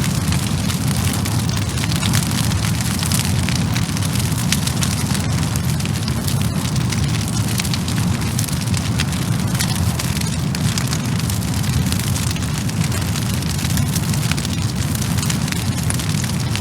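Wood fire burning with dense, continuous crackling and sizzling, many small pops over a steady low rush.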